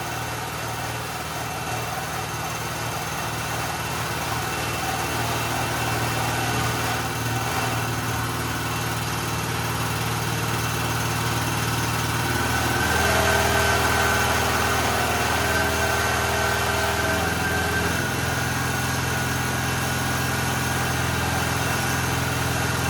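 Generac GP3250 portable generator's small single-cylinder engine running steadily, not yet up to full governed speed. Its note changes about 13 seconds in and again about five seconds later as the engine speed is adjusted toward about 3,600 RPM.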